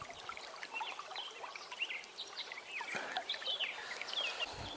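Small songbirds chirping and twittering, many short rising and falling calls in quick succession, over a faint steady background hiss. A soft low thump near the end.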